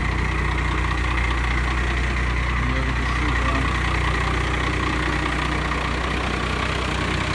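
1995 Dodge 3500's 12-valve Cummins 5.9-litre inline-six diesel idling steadily through a 5-inch straight-pipe exhaust, still cold shortly after a cold start.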